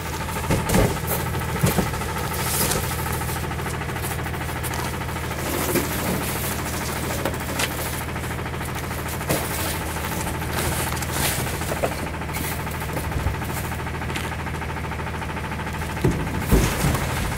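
CNG engine of a 2009 Autocar ACX rear-loader garbage truck running steadily, with scattered knocks and clatters, the loudest about half a second in, near two seconds, and around sixteen to seventeen seconds in.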